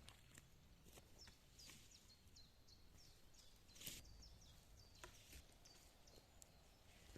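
Faint chirping of small birds: short, high calls, each gliding down in pitch, repeating about twice a second, with a few soft knocks, the strongest about four seconds in.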